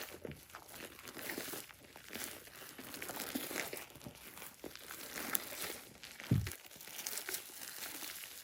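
Hands kneading and stretching sticky slime, a continuous irregular crackling and squishing, with one low thump about six seconds in.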